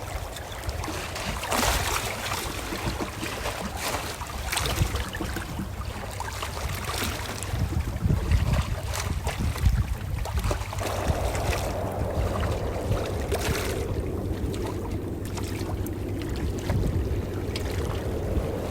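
Calm ocean waves washing in: a continuous low rush of water with a surge of hissing wash every few seconds.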